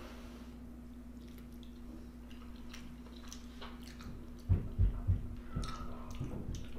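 Close-miked chewing and wet mouth sounds of someone eating a spoonful of pepper steak and rice, with scattered small clicks. Three heavy low thumps come in quick succession about four and a half seconds in, over a steady low hum.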